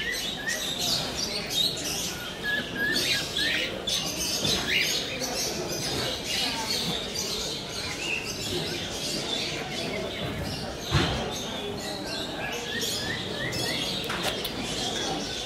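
Small birds chirping in runs of short, rising chirps, over the steady hubbub of a busy market crowd.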